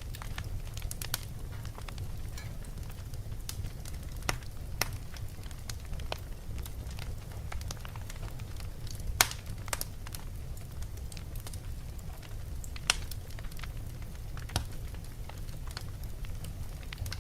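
Fire burning in a fireplace: irregular crackles and pops over a steady low rumble, with sharper pops about nine and thirteen seconds in.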